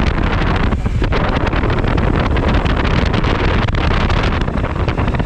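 Wind rushing over a motorcycle-mounted action camera's microphone at riding speed, with the Suzuki V-Strom 1000XT motorcycle running underneath. The noise is loud and uneven.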